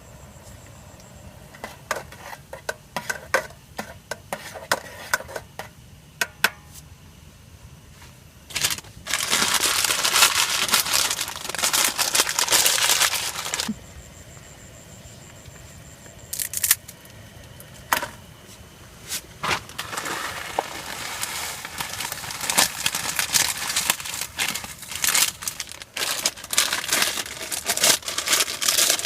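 Crinkling and crumpling handling noise: scattered sharp clicks at first, then two long spells of dense crinkling, one starting about eight seconds in and one about twenty seconds in.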